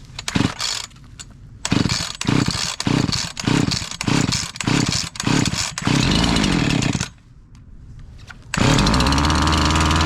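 Freshly rebuilt Husqvarna 345 two-stroke chainsaw being pull-started on full choke: a string of evenly spaced pulses, then it runs briefly and dies about seven seconds in. It starts again a second and a half later and runs steadily.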